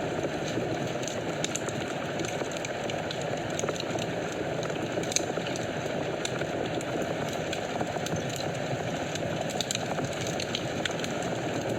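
Fire burning in a fireplace: a steady hiss of flames with many small, irregular crackles and pops, one sharper snap about five seconds in.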